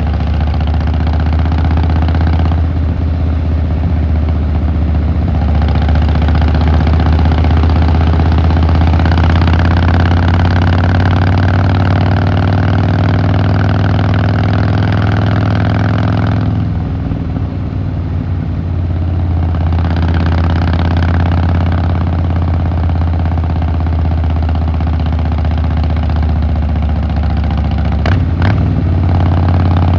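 Harley-Davidson Fat Boy Lo V-twin engine and exhaust running steadily while riding, its note shifting with the throttle. It drops off about 17 seconds in and picks up again around 20 seconds.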